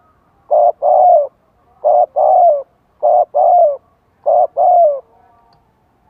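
Spotted dove cooing as a decoy call to draw wild doves: four two-note phrases about a second and a quarter apart. Each phrase is a short note followed by a longer note that falls at its end.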